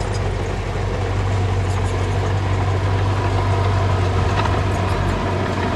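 Diesel engine of heavy construction machinery running steadily, with a strong low hum, and light clicks scattered over it.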